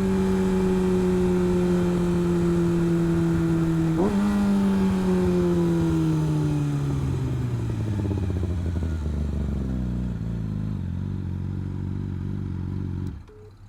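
Motorcycle engine running at a steady cruise, with a brief rise in revs about four seconds in. The revs then fall steadily as the bike slows to a low idle-like rumble, and the sound cuts off abruptly near the end.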